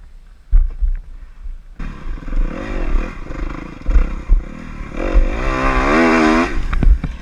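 Dirt bike engine revving, its pitch rising and falling, with the hardest revs about two-thirds of the way in before it drops off. Low thumps sit underneath.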